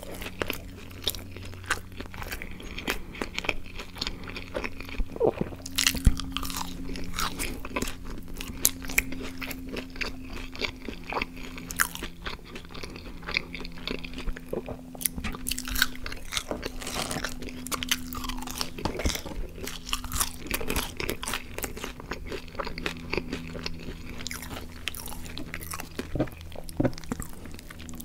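A person chewing mouthfuls of burger and french fries close to the microphone. Crunchy, wet mouth sounds of chewing and biting, with many small clicks and smacks.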